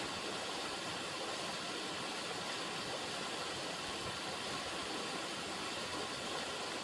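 Running river water: a steady rushing with no let-up and no single splashes standing out.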